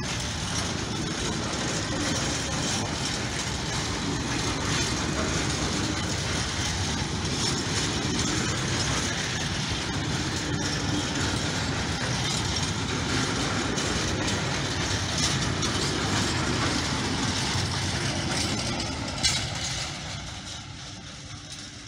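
Freight train of covered hopper wagons rolling past close by: a steady rumble and clatter of steel wheels on the rails. One sharp bang comes near the end, and the sound then drops away as the last wagon goes by.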